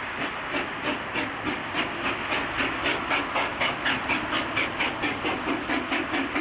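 Steam locomotive working hard, its exhaust chuffing in even beats of about four a second that quicken slightly, over a steady hiss of steam.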